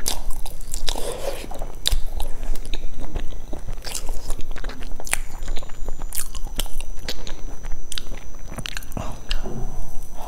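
Close-miked biting and chewing of a layered mille crêpe cake, with many irregular wet clicks and smacks of the mouth.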